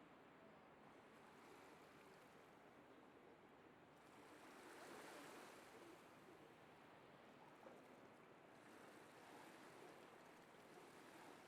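Near silence: a faint, even hiss of background noise that swells briefly around the middle.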